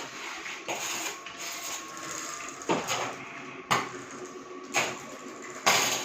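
A series of sharp knocks and clatters, roughly one a second and irregular, over a steady hiss.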